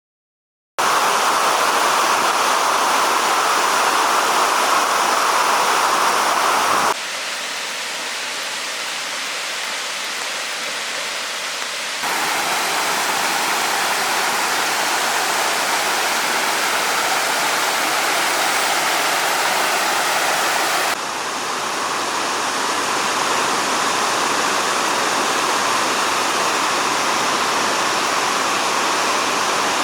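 Waterfall water rushing and splashing in a steady, loud hiss of falling water. It starts suddenly about a second in, and changes abruptly in loudness and tone about 7, 12 and 21 seconds in as one fall gives way to the next.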